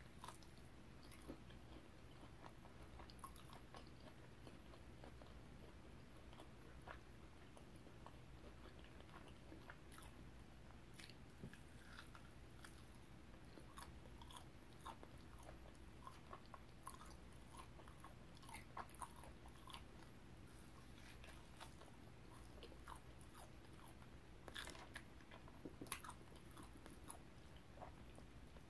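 Faint close-miked biting and chewing of a barbecue-sauced pork rib: soft wet mouth sounds with many short, sharp clicks scattered throughout, over a steady low hum.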